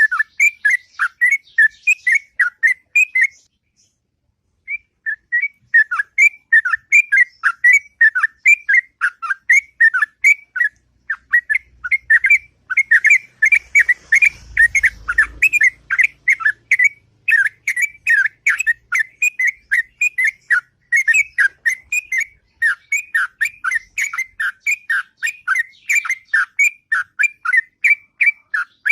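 Yellow-vented bulbul (trucuk) singing a long, continuous run of short, clear whistled notes, about three a second, breaking off for about a second near the start before carrying on.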